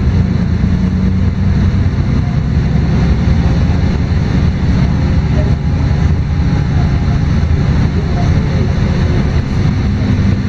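LiAZ-5292.22 city bus heard from inside the cabin while under way: a steady drone of the diesel engine and road noise with no breaks.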